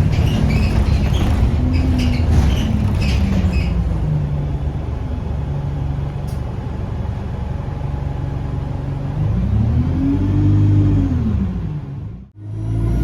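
A bus's diesel engine running under way, heard from inside the passenger cabin, with interior rattles over the first few seconds. Near the end the engine note rises and falls again, then the sound drops out abruptly for a moment.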